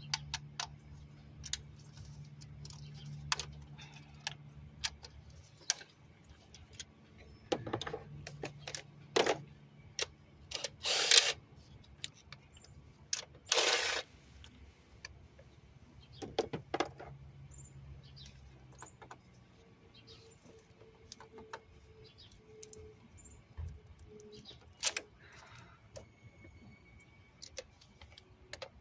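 Hand tools and metal engine parts clicking, clinking and scraping at irregular intervals while engine-bay parts are unbolted to reach a fuel injector. A low steady hum sits underneath for the first two-thirds, then fades.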